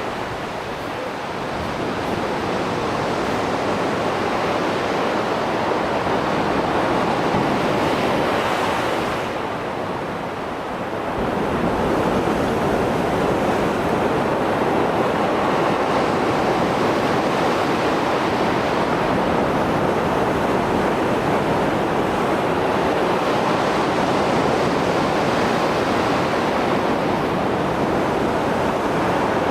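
Rough sea surf after a storm, waves breaking and washing continuously. It eases briefly about ten seconds in, then surges back.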